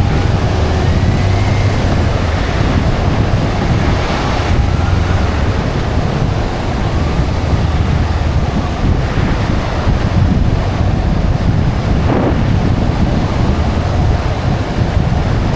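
Wind rushing over the microphone of a moving motorcycle, with the engine's low, steady hum underneath.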